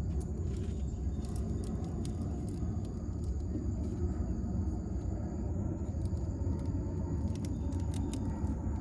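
Steady low rumble with scattered small clicks and scrapes of hand tools working on a thick copper battery cable.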